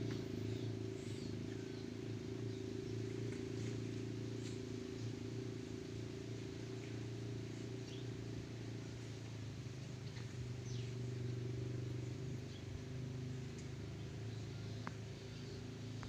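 Steady low machine hum with faint, scattered chirps from a flock of small birds over it.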